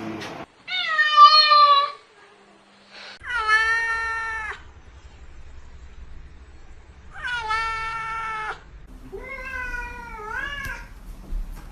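A domestic cat meowing: four long, drawn-out meows with pauses between them, the last one rising and then falling in pitch.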